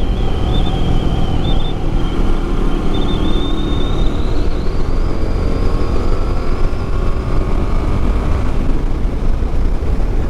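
Heavy wind buffeting on the microphone of a moving motorcycle, with the Yamaha MT-07's parallel-twin engine running underneath. The engine's pitch rises gradually in the middle as the bike accelerates.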